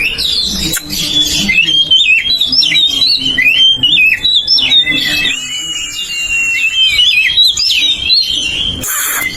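Oriental magpie-robin (kacer) singing its loud, open song: a continuous run of varied whistles sliding up and down, with one long held note about six seconds in. A short harsh burst comes just before the end.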